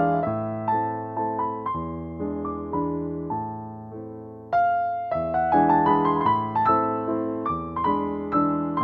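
Background piano music: a gentle melody of struck notes that fade away, with a short lull and a new, louder phrase starting about halfway through.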